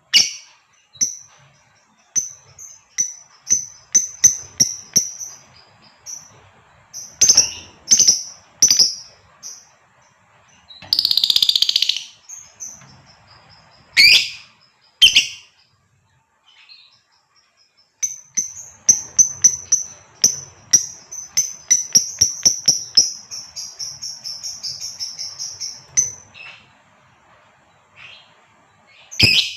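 Female lovebird calling to draw a male: loud, shrill chirps, some single and some in quick runs, with a short harsh rasping burst near the middle. About two-thirds through comes a long run of rapid chirps lasting about eight seconds.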